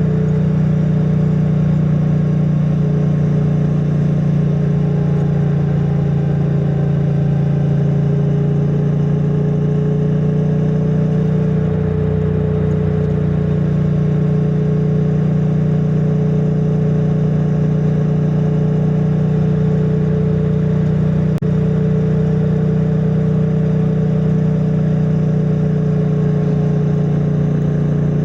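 Triumph Bonneville T100's 900 cc parallel-twin engine through its stock exhaust, running steadily at cruising speed, the note rising and falling only slightly. It sounds muffled from a microphone inside a backpack. There is one brief click about three-quarters of the way through.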